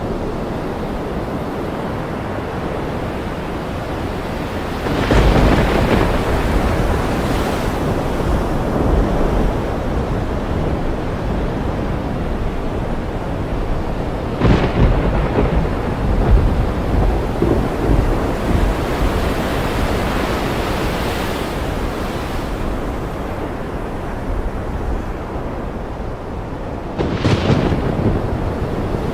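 Thunderstorm: three rolls of thunder break in, about five seconds in, near the middle and near the end, each with a deep rumble. Between them runs a steady wash of rain and ocean surf.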